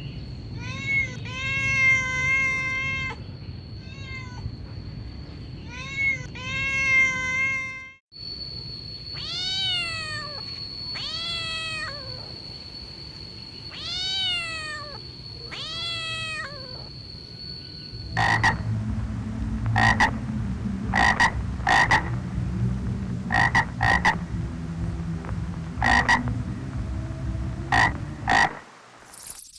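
Kitten meows: short high mews, then longer meows that rise and fall, one every two seconds or so. From about 18 seconds in, they give way to a series of short, clipped animal calls in quick bursts.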